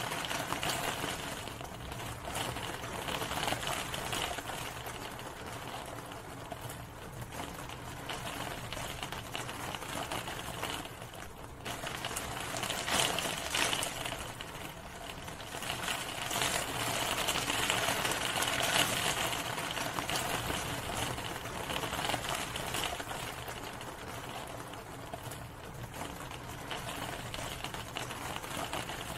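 Steady rain falling, a dense hiss full of rapid drop taps. It eases briefly about eleven seconds in.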